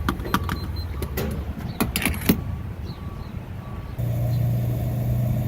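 Car running, a low steady hum with several sharp clicks and knocks over it. About four seconds in the sound changes abruptly to a louder, steadier low hum.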